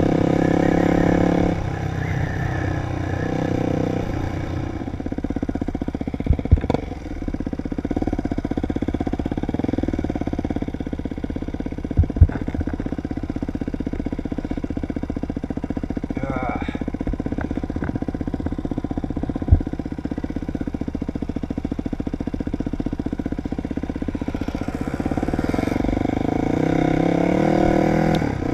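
Dirt bike engine running under way: revving high at first, dropping back about a second and a half in, holding a steady lower pitch, then climbing again near the end. A few sharp knocks break through along the way.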